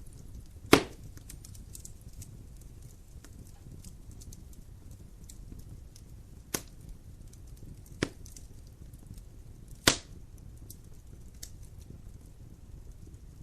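Wood fire burning in a fireplace: a steady soft hiss dotted with faint crackles, and four sharp pops as the logs snap. The first pop, about a second in, is the loudest; the other three come close together later on.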